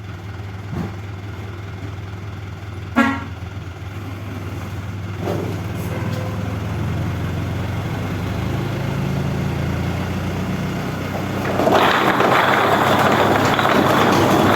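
A truck engine running steadily, with one short horn toot about three seconds in. From about twelve seconds a louder steady rushing noise joins it and lasts to the end.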